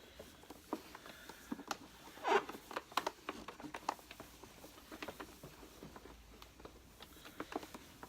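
Hands handling the plastic body of an upright vacuum cleaner: irregular light clicks, taps and rustles, with one louder rustle about two seconds in.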